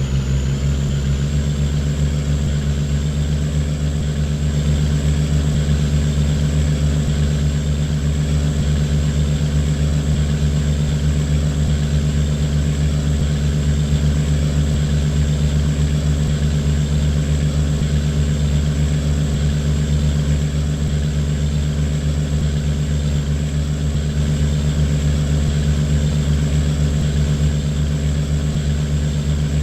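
A boat engine running steadily under way: a constant low drone with a thin high whine above it.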